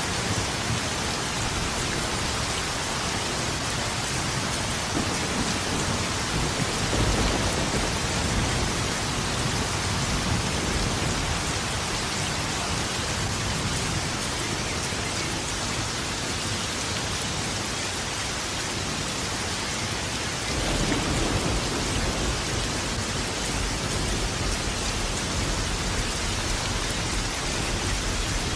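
Steady heavy rain falling, with thunder rumbling low twice: once about seven seconds in and again from about twenty seconds to the end.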